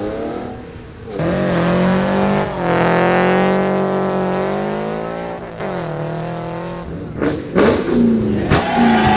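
A car's engine revving hard as it pulls out and accelerates away. The note climbs, breaks briefly at a gear change, then slowly falls as it pulls off, and a second shorter run follows. Several sharp cracks come near the end.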